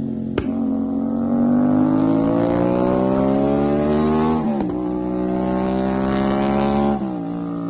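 CFmoto 450SR parallel-twin engine through an aftermarket RS exhaust, accelerating hard with the revs climbing steadily in each gear. The pitch drops sharply with a click about half a second in, at about four and a half seconds and at about seven seconds as it upshifts.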